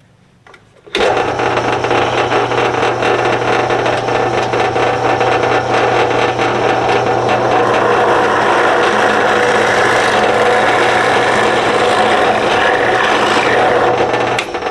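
Power drill boring a hole through wooden fence-picket handle boards, trying to go through both handles in one pass. The motor starts about a second in, runs steadily with the bit cutting wood, and stops near the end.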